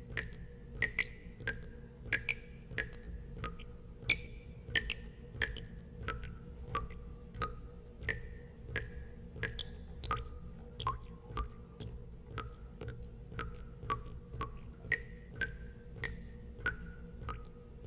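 Water drops falling into water, about two plinks a second, each a short ringing note whose pitch varies from drop to drop, over a steady low hum.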